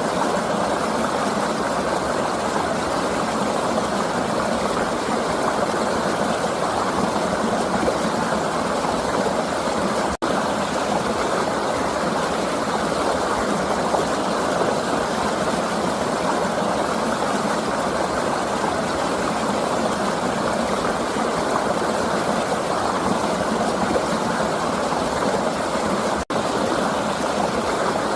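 Flowing river rushing in a steady, even wash of water noise, cut by a split-second dropout twice, about ten seconds in and again near the end.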